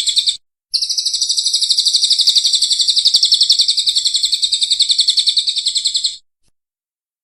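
A songbird's rapid, evenly pulsed high trill of about a dozen notes a second. It breaks off briefly near the start, resumes, and stops about a second before the end.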